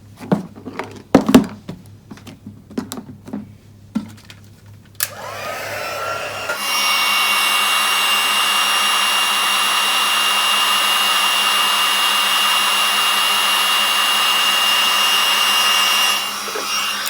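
Embossing heat tool switched on about five seconds in, whining up to speed and then blowing steadily for about ten seconds before it is switched off, melting white embossing powder. Before it, a few light clicks of handling.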